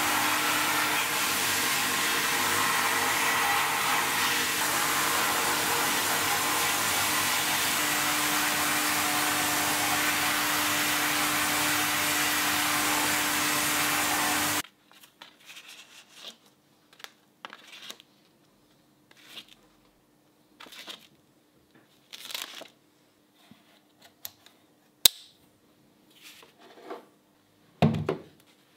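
A small electric appliance motor running steadily with a rushing whir and a low hum, cut off suddenly about halfway through. Then scattered light clicks and handling noises, with one sharp click and a low thump near the end.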